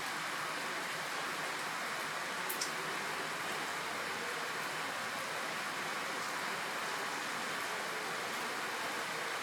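Steady rain falling, an even hiss, with one short sharp tick about two and a half seconds in.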